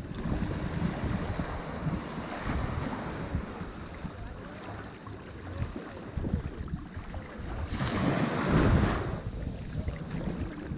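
Ocean waves washing onto a shore in a steady rush, with one wave breaking louder about three quarters of the way through.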